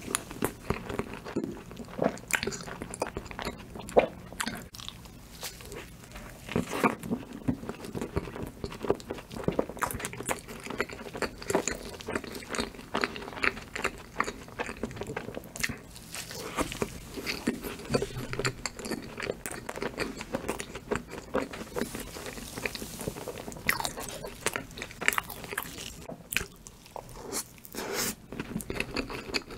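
A person chewing and biting Oreo cookie cake, with many irregular crunches of the chocolate cookie pieces.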